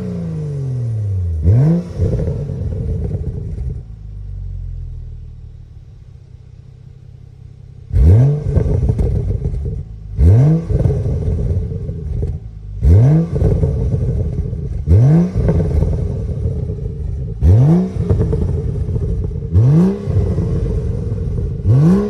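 Stock 2012 BMW 335i's turbocharged 3.0-litre inline-six (N55) being revved with the car standing. One short rev about a second and a half in, then a few seconds of steady idle; from about eight seconds in, a run of quick throttle blips about every two seconds, each climbing sharply and falling straight back.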